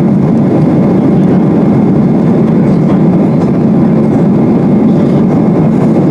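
Steady, even engine and airflow noise heard inside the cabin of a United Boeing 777-200 airliner.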